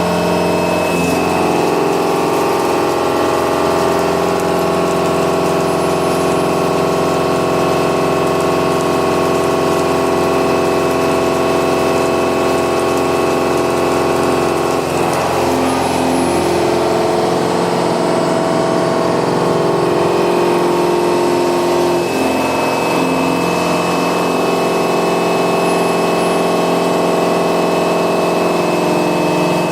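Milling cutter with indexable inserts machining metal: a steady, many-toned machine whine whose pitch pattern shifts about a second in, about halfway through and again a little later.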